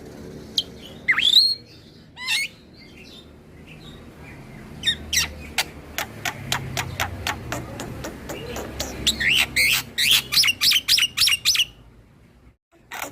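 Black-winged myna (jalak putih) singing: a loud rising whistle and a few harsh calls, then a string of sharp clicking notes that quickens into a fast run of short notes and stops shortly before the end.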